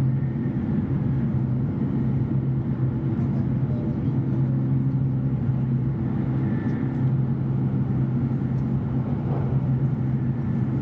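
E7 series Shinkansen passenger cabin while the train is running: a steady low rumble of running noise with a constant low hum underneath.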